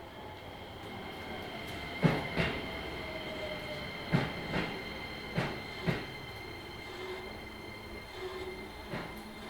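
Keisei 3000 series electric train running, heard from inside the car: the wheels knock over rail joints in pairs, with a steady high-pitched whine throughout.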